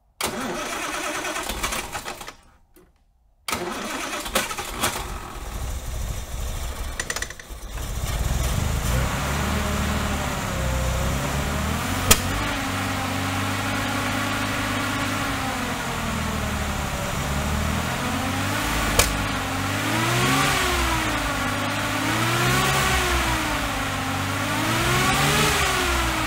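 Austin-Healey 3000's straight-six cranking on the starter, stopping briefly, cranking again, then catching about eight seconds in and running roughly, with two sharp pops. Near the end the throttle is blipped several times, the engine note rising and falling. It is popping and banging and not happy: misfiring on sooty plugs from running too rich.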